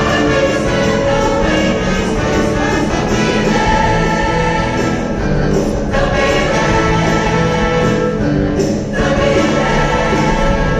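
A choir singing a Christmas song live with instrumental accompaniment.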